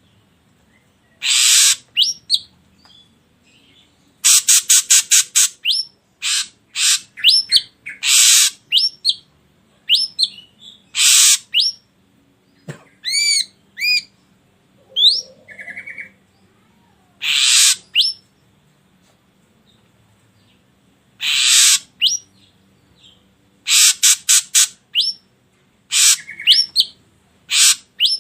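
Ashy drongo calling: loud harsh rasping calls in groups, some delivered as quick runs of short strokes, mixed with short upward-slurred whistled notes, with pauses of a second or several between groups.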